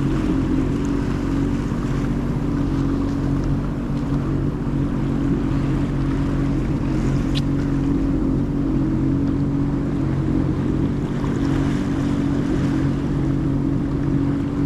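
Jet ski engine running at a steady speed, an even droning hum, with water and wind noise around it.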